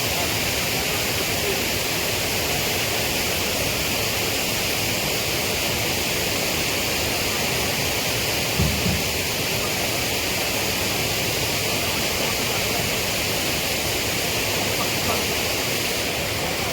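Steady rush of a waterfall and river water. A brief low thump comes about halfway through.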